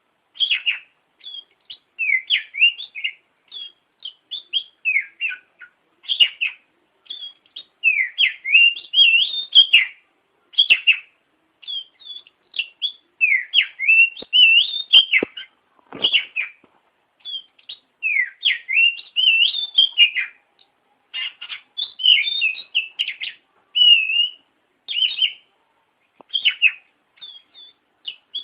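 Oriental magpie-robin singing continuously, in short phrases of quick rising and falling whistled and chattering notes, one after another with brief pauses.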